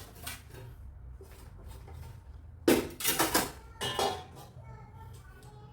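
Hard objects clinking and clattering. A sharp knock comes about two and a half seconds in, followed by a quick run of further clatters, with a few lighter clicks before it.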